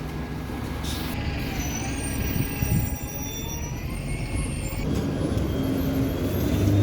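Diesel buses running at an interchange: a steady low engine rumble with a short hiss about a second in, and an engine note growing louder near the end.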